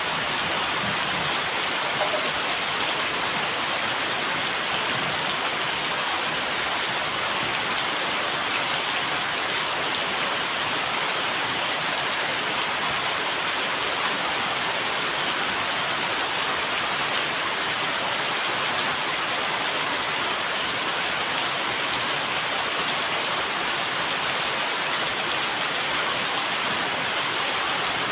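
Steady heavy rain falling, an even hiss that neither swells nor breaks.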